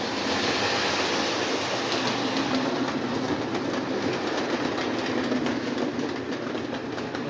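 Lionel O27 toy train, a Chessie System diesel locomotive pulling a string of boxcars, a tanker and a caboose, running steadily around the track with the continuous whir of its motor and wheels on the rails.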